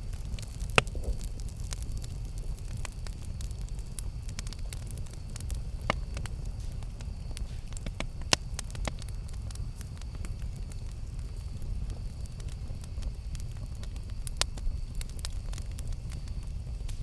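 Campfire burning with a steady low rumble and scattered sharp pops and crackles of burning wood, the loudest pops less than a second in, at about six seconds and at about eight seconds.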